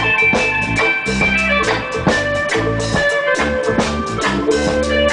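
Live reggae band playing an instrumental passage: bass, guitar and drum kit keep a steady beat, with regular drum hits.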